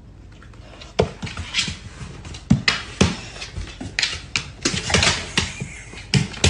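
A rapid, irregular run of hard clattering knocks and taps in a small room, starting about a second in, roughly three or four a second.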